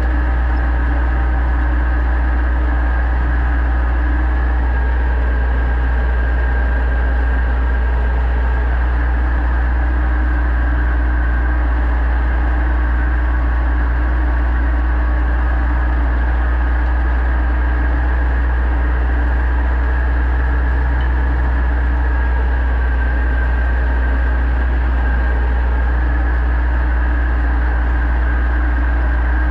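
Pronar 1025A tractor's diesel engine running steadily at constant speed while pulling a plough, a deep unchanging rumble.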